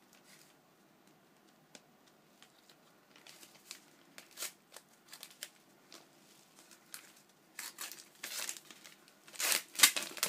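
Packaging being crinkled and torn open by hand as a gift is unwrapped: scattered rustles and crackles that grow busier and louder over the last few seconds.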